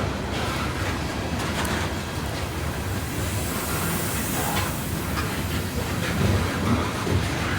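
Freight train cars rolling past: a steady rumble of steel wheels on the track, with occasional clicks from the rail joints.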